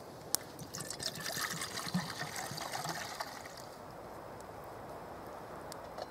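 Water being poured and trickling for a couple of seconds, starting about a second in after a single sharp click, then fading out.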